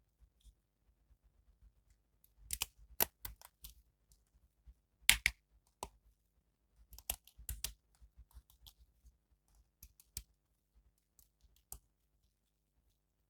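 Hands handling an action figure and its plastic packaging: irregular sharp clicks, taps and crinkles in short clusters. The loudest click comes about five seconds in, and scattered fainter ticks follow.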